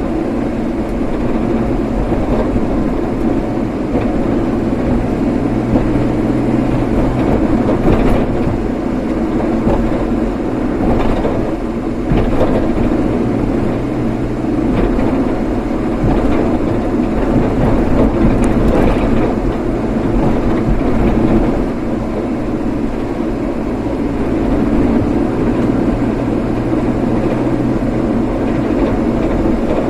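Car driving steadily along the road: constant engine hum and tyre and road noise, with a few faint clicks.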